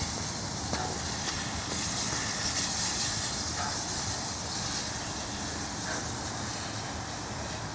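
Train passing at speed: a steady rush of wheel-on-rail noise, its hiss loudest around the middle.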